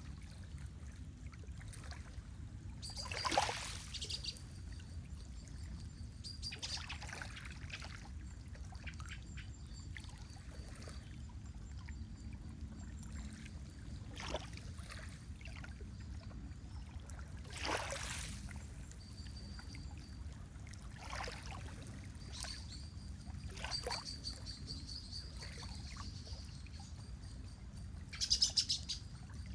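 Lake water lapping at the shore in separate soft splashes over a steady low wash. A bird sings in thin, high notes through the second half, loudest near the end.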